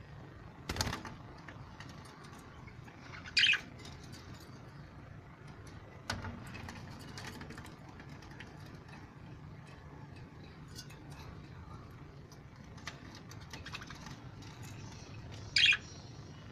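Birds chirping, with two loud short calls, one about three seconds in and one near the end, and faint high ticks in between. Two sharp knocks sound, one near the start and one about six seconds in.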